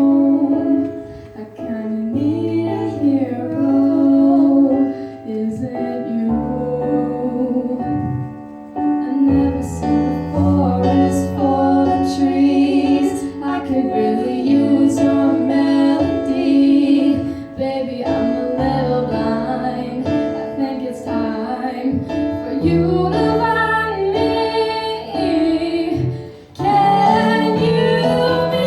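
A young girl singing a song over instrumental accompaniment.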